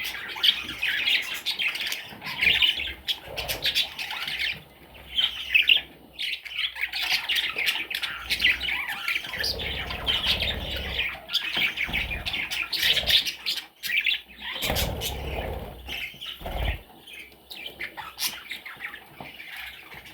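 Budgerigar chattering and warbling with scratchy chirps and clicks, with a few dull low thumps in the second half.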